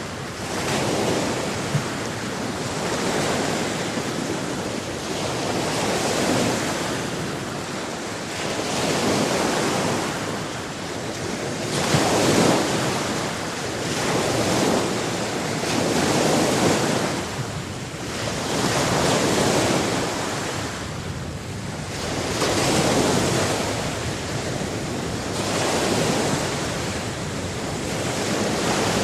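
Sea waves breaking and washing on a shore, swelling and falling away about every two to three seconds.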